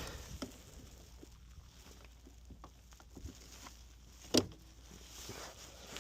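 Faint handling clicks and rattles of jumper cable clamps and the starter being worked on, with one sharp metallic click about four seconds in. This is made while hooking leads to a side-post battery to bench-test a removed starter solenoid.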